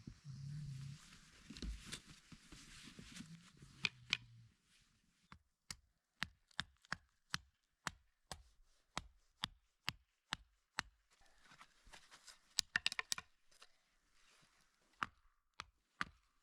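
Footsteps crunching in snow, a regular run of short sharp steps about two a second.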